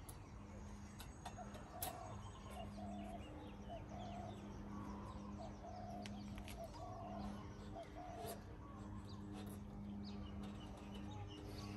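Birds calling, a short cooing note repeated roughly every half second, over a steady low hum, with a sharp click about two seconds in.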